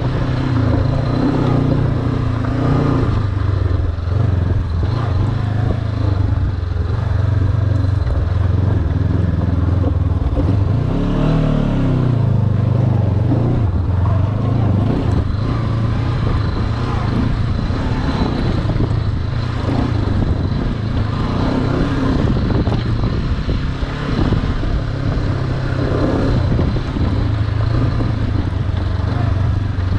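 Honda CB500X's parallel-twin engine running steadily as the motorcycle is ridden, its note dipping and then rising again about eleven to thirteen seconds in.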